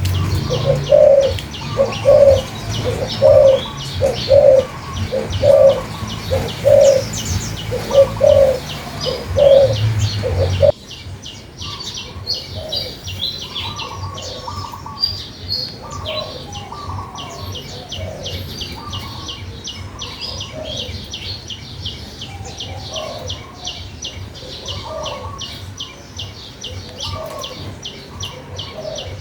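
Many small birds chirping constantly in high, quick notes. For the first ten seconds or so a dove coos over and over in a steady rhythm, a little more than one coo a second. The coos and a low rumble then cut off abruptly, and the chirping goes on with scattered lower calls.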